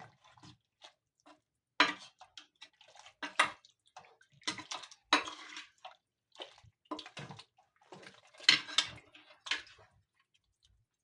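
Cutlery and serving spoons clinking and scraping against plates and a pot as food is dished out, in irregular knocks with no steady rhythm.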